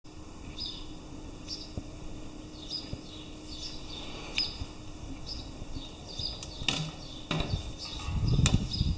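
Small birds chirping over and over with short high calls, over a faint steady low hum. Near the end come a few sharp knocks and a rising low rumble.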